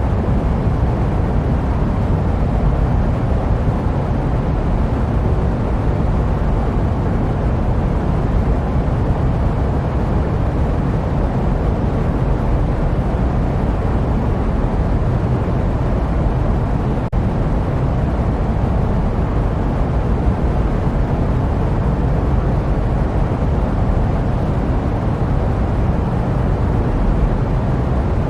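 Steady jet aircraft noise used as white noise: an unbroken low rushing drone with little high end. A single short click about 17 seconds in.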